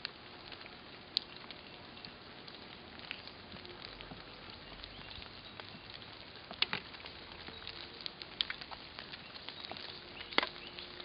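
Light rain pattering steadily and faintly, with scattered sharp ticks of drops, the clearest about six and a half and ten and a half seconds in.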